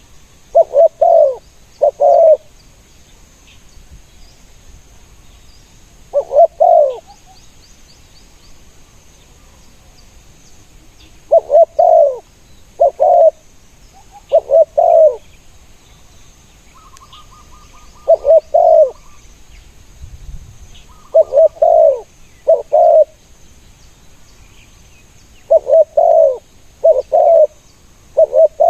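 Spotted doves cooing: short phrases of two or three low coos, repeated every few seconds.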